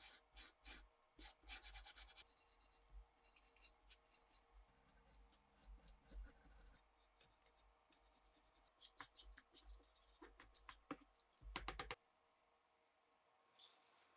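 Hand work on Mauser K98 rifle parts: a quick run of rubbing and scraping strokes with sharp clicks that stops about twelve seconds in, then a short soft hiss near the end.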